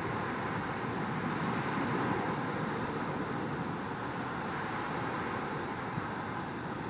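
Steady background hum of distant road traffic, with a faint tick about six seconds in.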